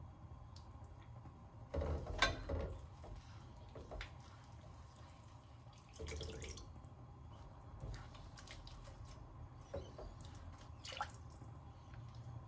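Liquid splashing into a nonstick frying pan: a spoonful of dark sauce about two seconds in, then water poured from a small bowl about six seconds in, followed by a few light scrapes and taps of a silicone spatula stirring the paste.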